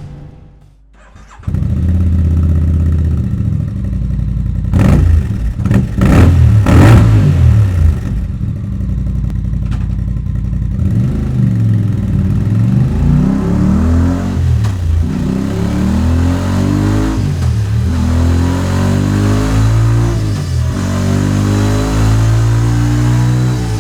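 Voge DS 625 X parallel-twin motorcycle engine with a Scorpion slip-on stainless exhaust, starting about a second and a half in, idling, and revved in a few quick blips. It then accelerates on the dyno through several gears: the pitch climbs and drops sharply at each of about four shifts.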